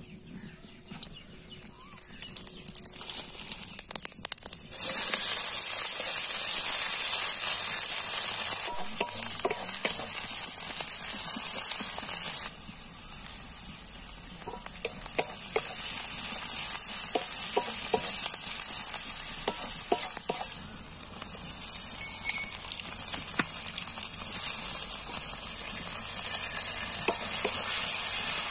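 Hot oil sizzling in a metal kadai over a wood fire, quietly at first with dried red chillies in it, then suddenly much louder about five seconds in as sliced onions go into the oil. The onions keep frying while a wooden spatula stirs and scrapes them against the pan, making repeated small clicks.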